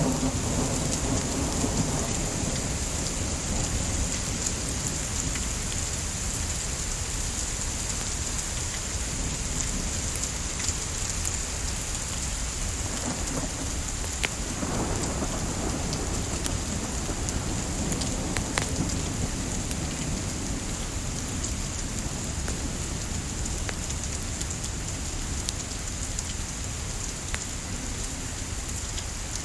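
Steady rain hissing, mixed with a wood fire crackling, with scattered sharp pops. A low rumble of thunder swells up twice: at the start and again around the middle.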